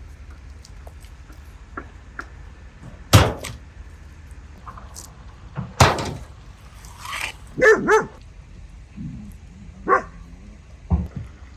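Two sharp knocks, then a dog barking: two quick barks close together about eight seconds in and a single bark about two seconds later.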